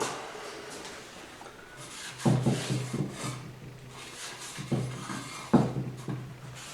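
Transmission parts and tools being handled: four knocks and clunks with rubbing and scraping between, the loudest about two seconds in and again near the end.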